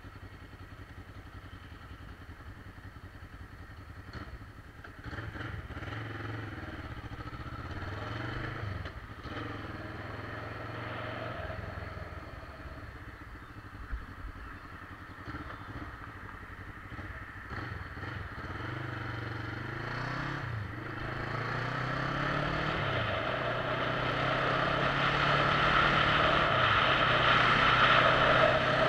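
Motorcycle engine heard from the ride, its note rising and falling with the throttle a few times. A rushing noise builds and grows louder over the last few seconds as the bike picks up speed.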